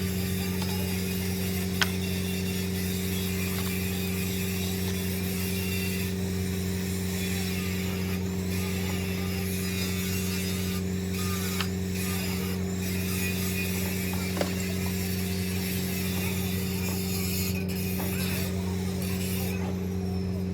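A machine or motor running with a steady, unchanging hum, with a few faint clicks.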